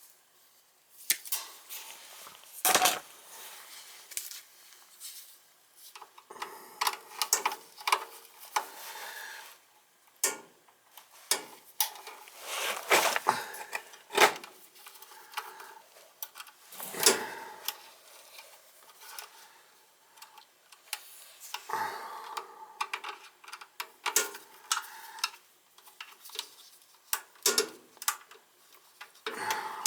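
Irregular clicks, taps and light metallic clatter of hand tools and small parts being handled during furnace wiring work.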